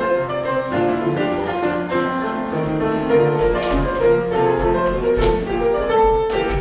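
Instrumental music led by piano, with bowed strings under it, playing a melodic classical-style passage.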